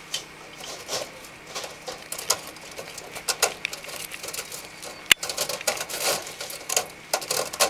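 Irregular light clicks, taps and rattles of a gutter screen and its splice strip being handled and slid together, with one sharper click about five seconds in.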